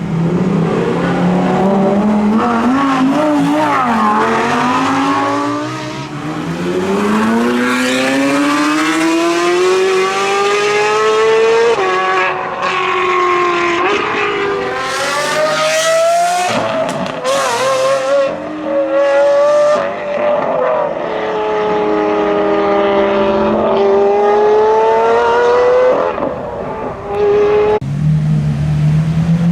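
Lamborghini supercar engine accelerating hard: the pitch climbs through a gear, drops at each upshift and climbs again several times, with sharp crackles in the middle.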